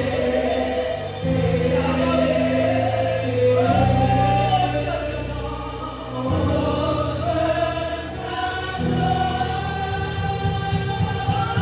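Gospel worship music: a choir of voices singing a slow melody over held low chords that change every two to three seconds.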